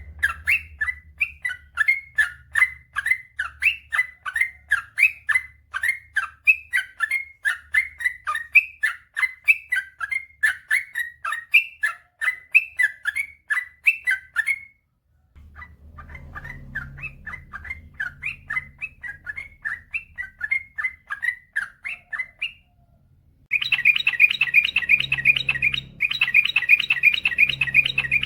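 Yellow-vented bulbul (trucukan) singing a chain of quick, chattering notes, about three a second, broken by two short pauses. Near the end it runs into a long, dense, rapid trill, the 'ropel panjang' that bird keepers prize.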